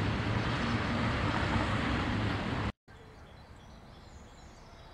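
Freight train of flat wagons rolling past, a loud steady noise of wheels on the rails. It cuts off abruptly a little under three seconds in, leaving quiet outdoor background with a few faint bird chirps.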